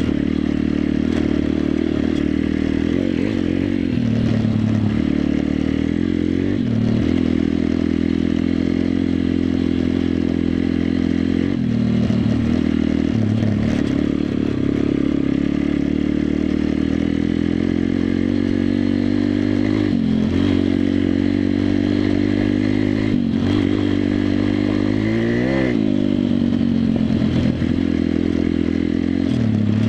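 WPB 140 Race pitbike's single-cylinder four-stroke engine running under way, its note dropping and picking up again several times as the throttle is eased and reopened, with one quick rev up and down near the end.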